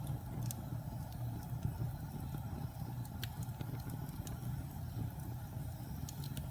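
Wood fire burning in a fireplace: a steady low rumble of the flames with a few sharp crackles and pops, about half a second in, around three seconds in and near the end.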